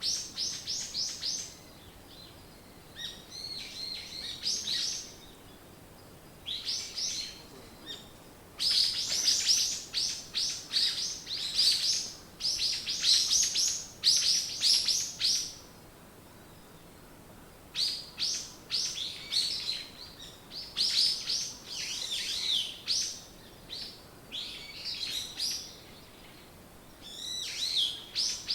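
Songbirds chirping: phrases of quick, repeated high notes, each a second to several seconds long, with short pauses between them and the densest singing in the middle.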